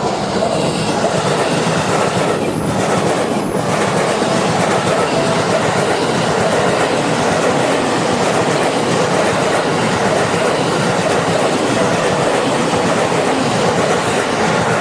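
A train passing over a level crossing at close range: a loud, steady rush of wheels on rail with clickety-clack that comes up sharply at the start and holds. The crossing's warning bell keeps ringing faintly underneath it.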